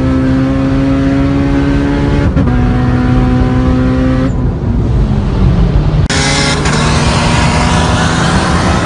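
Car engine held at high revs under hard acceleration, heard from inside the cabin, its pitch climbing slowly. About six seconds in, a loud rushing noise comes in over it.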